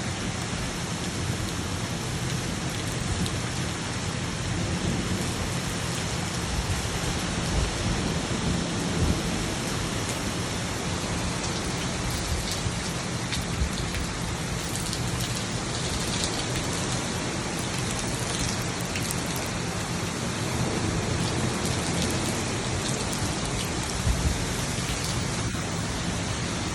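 Steady rain pouring down in a thunderstorm, with a few low rumbles of thunder swelling up now and then.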